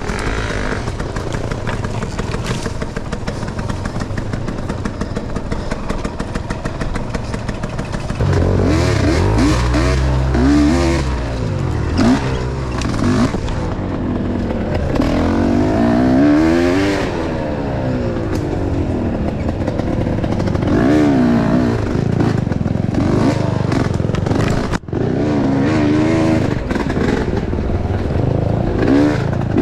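Enduro motorcycle engine running, then from about eight seconds in revving up and down again and again, its pitch repeatedly rising and falling; the sound cuts out for an instant near the end.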